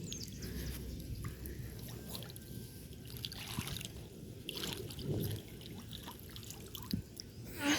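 Faint water trickling and sloshing as toys are moved through it, with a few small knocks.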